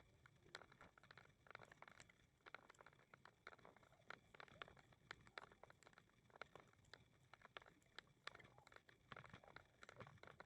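Faint footsteps on a walk: irregular light clicks and crunches, several a second, over a low steady background hum.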